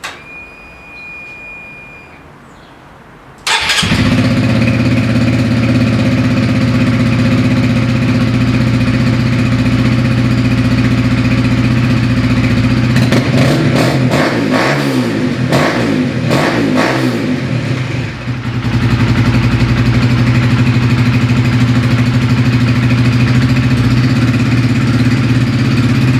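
Honda CBR125R single-cylinder engine through an Akrapovič exhaust with its baffle fitted, cold-started. A click and a short thin whine come first, then the engine catches about three and a half seconds in and idles steadily. It is revved several times in the middle, settles back to a steady idle and is switched off at the end.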